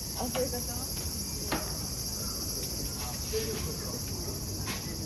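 Steady, high-pitched droning of a chorus of insects, with faint voices and a few light clicks underneath.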